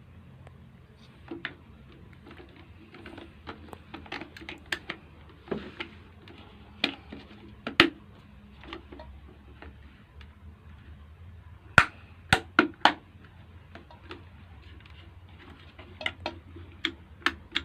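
Plastic parts of an electric kettle being handled and pressed together, a scattered run of small clicks and knocks, with a quick cluster of three sharp clicks about twelve seconds in.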